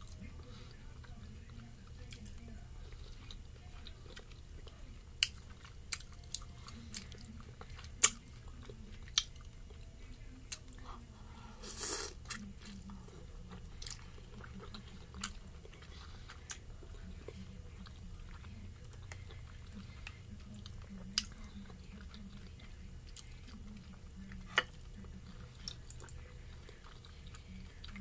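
Close-miked eating sounds: chewing spicy noodles and pan-fried dumplings, with scattered sharp wet mouth clicks and one short louder rush of noise about twelve seconds in, over a faint low hum.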